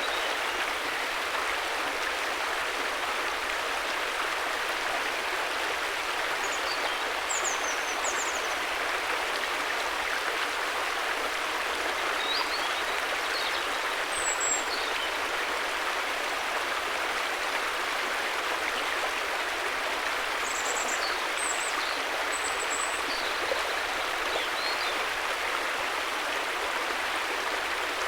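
River water flowing steadily, an even rushing with no breaks, with a few faint, short high chirps now and then.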